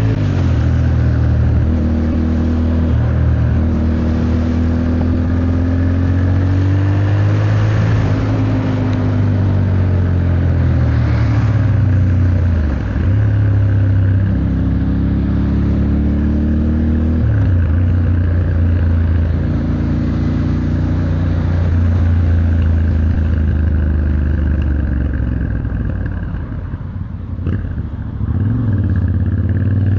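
Yamaha Ténéré 700's parallel-twin engine pulling through the gears in traffic. Its pitch rises as it accelerates and drops back at each shift, over steady wind and tyre noise. Near the end it eases off briefly, then pulls again.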